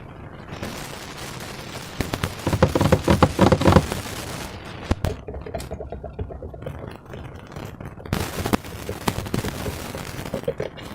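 Slime being handled and squeezed, giving rapid, irregular crackling clicks, densest and loudest about two to four seconds in.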